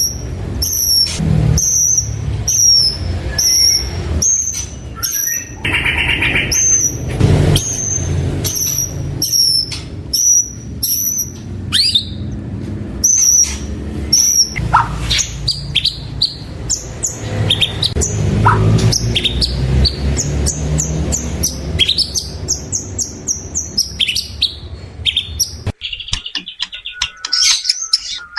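White-rumped shama singing: a run of short, high chirps about twice a second, then varied, falling whistled notes, over a steady low background rumble that drops away abruptly near the end.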